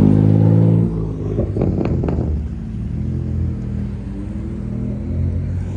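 A car's engine running loud and steady for about the first second, then dropping to a lower rumble as the car moves on.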